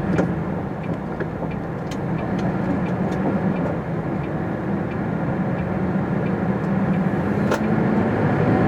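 MAN TGX articulated lorry's diesel engine running steadily under way, with road noise. A few brief sharp clicks, the clearest about seven and a half seconds in.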